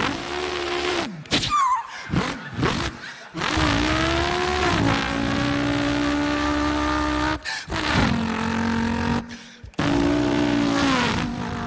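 A man's voice imitating a car engine: long held engine notes that climb and then step down in pitch like gear changes, broken by short pauses for breath. A brief high squeal comes near the start, like tyres.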